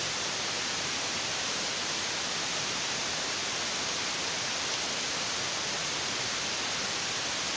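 A steady, even hiss that stays at the same level throughout.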